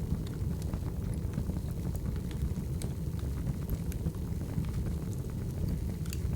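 Firewood burning: a steady low rumble of flames with irregular small crackles and pops.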